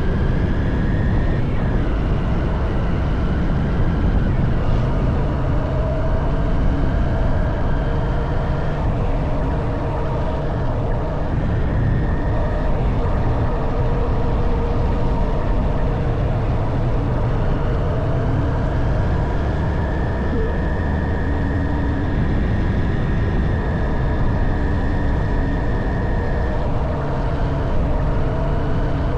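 Honda CB190R's single-cylinder four-stroke engine running under way, its note shifting up and settling at new pitches several times with throttle and speed, over a steady rush of wind and road noise.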